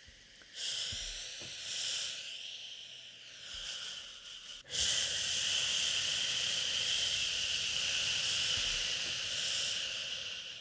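A person shushing "shhh" to soothe a baby: a few short shushes, then one long steady shush from a little before the middle to near the end.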